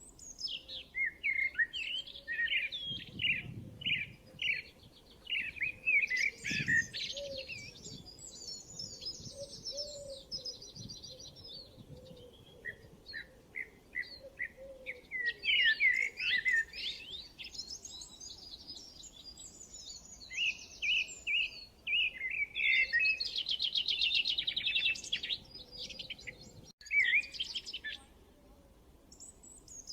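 Songbirds singing: a busy mix of quick chirps and whistled phrases, broken by fast trills, the longest a little past the middle.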